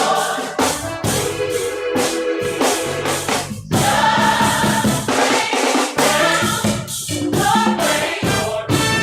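Gospel choir singing, backed by a steady beat of drums and percussion.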